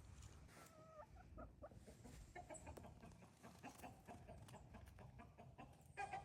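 Faint short animal calls, a few at a time with gaps between, over a near-silent background.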